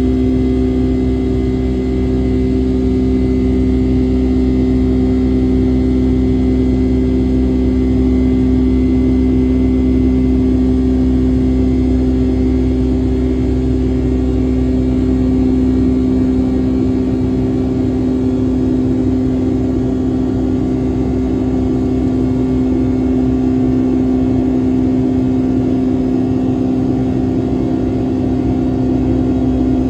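Boeing 757-200's Pratt & Whitney engines running steadily, heard from inside the cabin: a loud, even hum with two strong steady tones over a low rumble.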